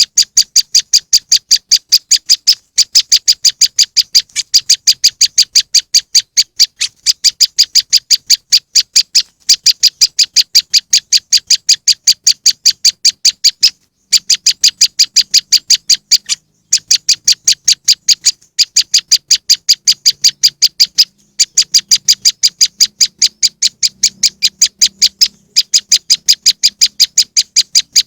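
Recorded prenjak lumut (moss wren) call used as a bird lure: a rapid series of sharp, high chirps, about four or five a second, in long runs broken by brief pauses.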